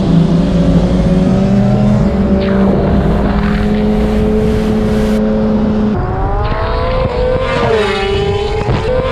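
Sport-bike engines running steadily at idle. About six seconds in, a motorcycle launches and accelerates hard, its revs climbing and dropping back with each gear shift about once a second.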